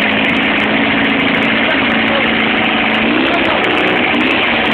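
Audi 80 diesel engine idling steadily.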